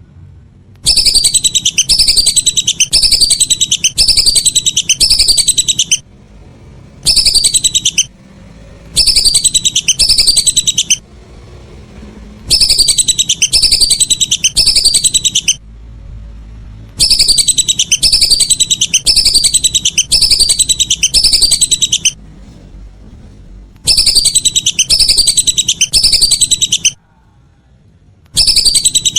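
Whistling duck (belibis) calls used as a lure track: runs of rapid, high whistled notes, each sliding down in pitch. They come in loud bursts of one to five seconds with short pauses between.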